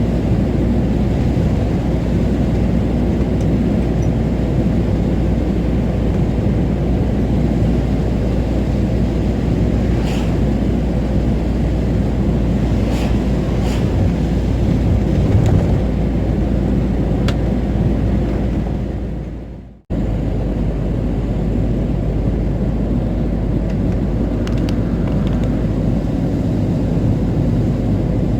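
Road and engine noise inside a moving camper van: a steady low rumble with a few faint clicks and rattles. About twenty seconds in it fades out sharply and cuts straight back in.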